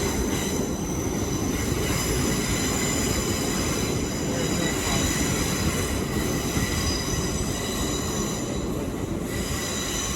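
GWR Class 800 train moving out of the platform: a steady rumble with several high steady whining tones above it.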